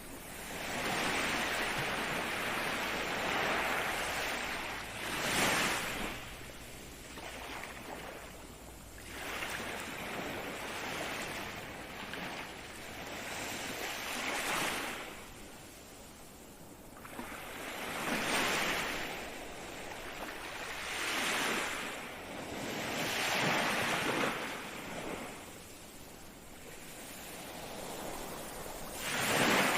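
Ocean waves breaking and washing on the shore, swelling and falling away every few seconds, with a light hiss of wind.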